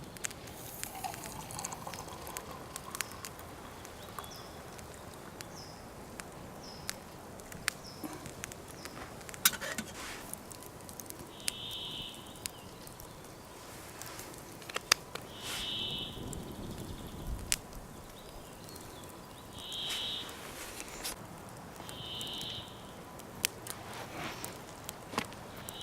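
A bird calling repeatedly, a short buzzy call about every four seconds, over scattered sharp clicks and crackles.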